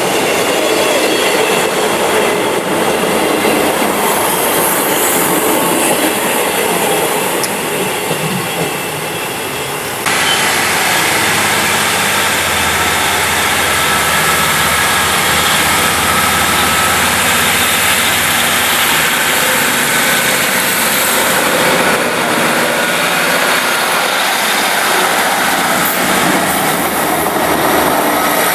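Diesel multiple unit train running past: a loud, continuous rush of wheels on rail with a low steady hum, and an abrupt change in the sound about ten seconds in.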